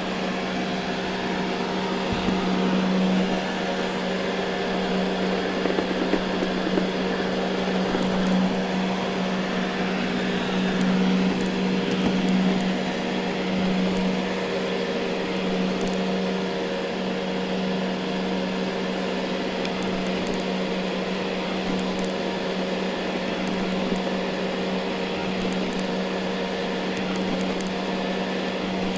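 Ecovacs Deebot N79 robot vacuum running on carpet: a steady motor drone with a hum of several steady tones over a hiss, and occasional faint ticks.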